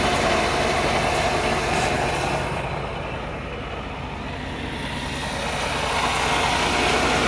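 Semi-truck tractor's diesel engine idling steadily, its sound dipping a little in the middle and rising again near the end.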